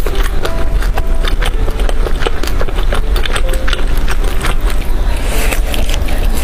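Close-miked chewing of grilled skewered food, with many quick wet mouth clicks and smacks. Near the end comes a denser, crunchier bite into a fried tofu cube.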